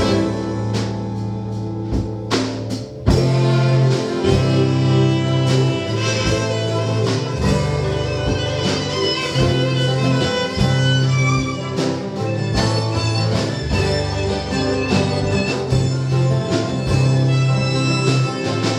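Live band playing an instrumental break with fiddle and guitar over a steady bass line, with regular drum hits. The sound dips briefly about two and a half seconds in, then comes back in full.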